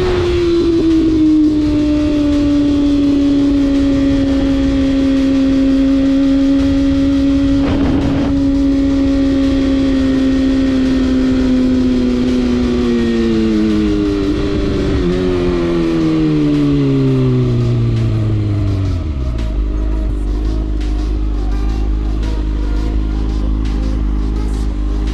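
Motorcycle engine under way: the engine note drops, holds steady at cruise, then falls over several seconds as the bike slows, settling into a low idle rumble about three-quarters of the way through. A brief burst of noise comes about a third of the way in.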